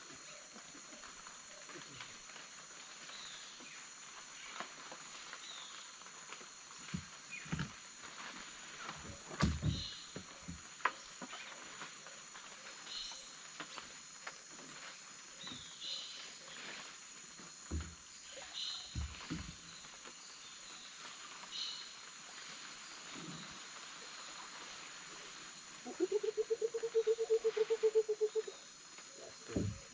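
Tropical rainforest ambience: a steady high-pitched insect drone with scattered short bird calls and a few brief low knocks. Near the end a rapid pulsing call runs for about two seconds.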